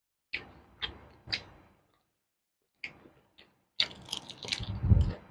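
Close-miked crunching of raw vegetables being chewed. Three crisp crunches come about half a second apart, then a couple more, and the chewing grows denser and louder near the end.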